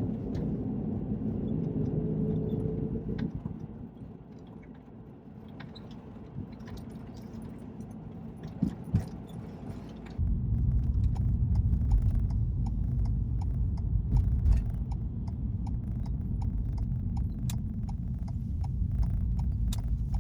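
Inside a Ford Transit Connect van: small clicks and handling noises over a low rumble. About halfway through, the engine starts and settles into a steady low-pitched run.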